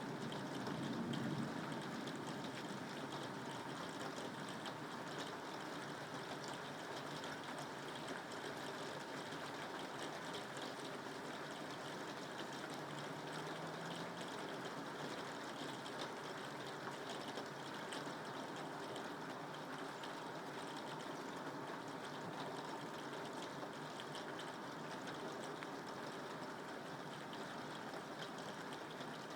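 Soft rain falling steadily, an even hiss. A low rumble, which in this recording is thunder, fades out about a second in.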